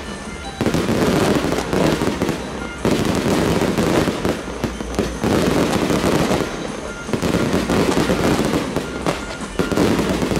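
Fireworks display: dense, loud crackling and popping that swells in waves about every two seconds, from spark fountains and small aerial effects going off together.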